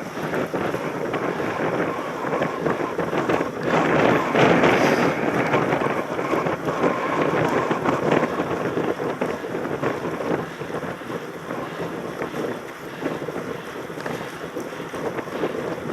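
Wind rushing over a helmet-mounted microphone on a moving mountain bike, with rattling and knocks from riding over rough ground; loudest about four seconds in.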